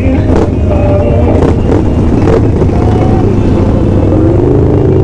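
Motor vehicle engine, most likely a motorcycle, running steadily with a continuous low rumble.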